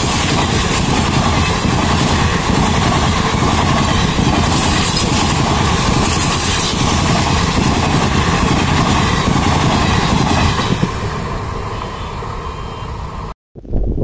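Passenger train coaches passing close at speed: a loud, steady rush and rumble of wheels on the rails. It eases off about eleven seconds in as the train draws away, then cuts off abruptly.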